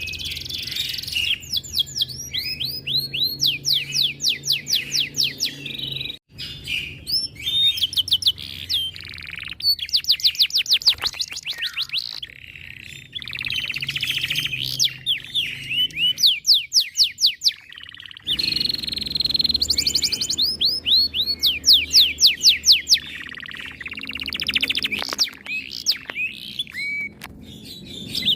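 Domestic canary singing a long, loud song of rapid repeated trills and rolling sweeps, phrase after phrase, breaking off abruptly twice.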